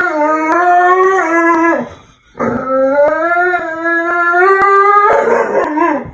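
Dog howling: two long held howls. The first slides down and stops about two seconds in, and the second starts just after, holds steady, then wavers and breaks up near the end.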